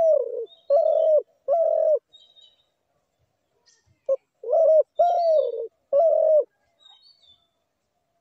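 Dove cooing: a phrase of three low coos, a pause of about two seconds, then a short note and another three coos, each coo sliding slightly down in pitch. Faint high chirps of small birds sound in the background.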